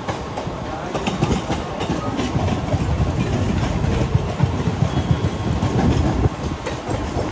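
Mumbai suburban local electric train running, heard from its open doorway: a steady rumble of wheels on track with irregular clacks over rail joints.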